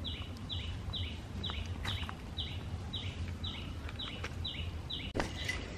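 A bird calling one short, falling, high note over and over, about two a second, over a steady low hum.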